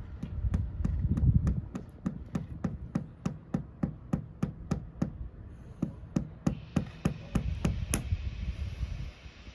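Hammer tapping a red cedar plug into an epoxy-filled hole in a wooden boat: a steady run of sharp blows, about three a second, that stops about a second and a half before the end.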